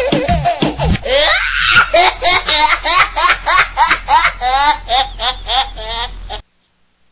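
Loud, high-pitched laughter in quick, evenly spaced ha-ha bursts. It changes to a different laugh about a second in and cuts off abruptly shortly before the end.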